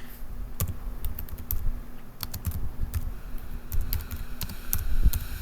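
Typing on a computer keyboard: irregular quick keystroke clicks, over a faint steady low hum.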